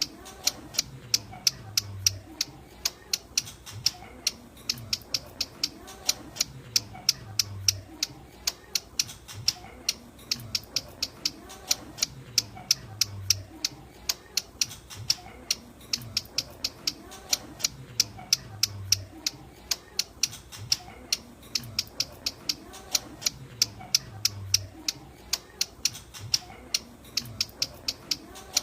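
Ciblek gunung, a prinia, calling in a fast run of sharp, high chips, three or four a second, with the same sequence coming round again every five to six seconds: a looped call used as a trapping lure.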